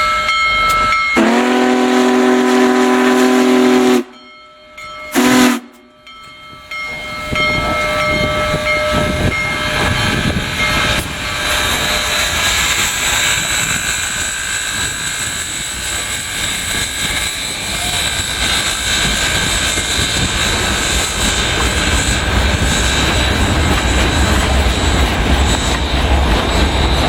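Big Boy 4014 steam locomotive's whistle blowing a chord for about three seconds, then a short toot a second later. After that, the steady rush and hiss of the locomotive and train running past, with a low rumble growing near the end.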